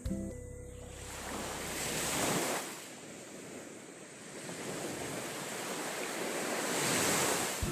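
Sea waves breaking and washing up on a sandy beach, swelling twice: about two seconds in and again near the end. Wind buffets the microphone.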